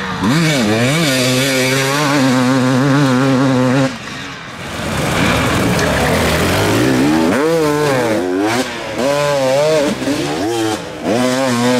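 Hard enduro dirt bike engine revving hard, held high for about four seconds before the throttle is shut off, then a series of quick throttle blips that rise and fall.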